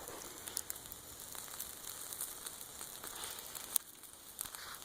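Chicken sizzling directly on campfire coals, a steady hiss with fine crackling and one sharper pop near the end.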